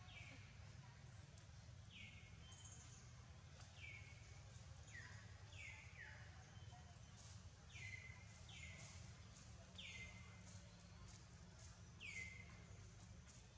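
Faint bird calls: a series of short notes, each sliding down in pitch, repeating about once a second over a low steady background hum.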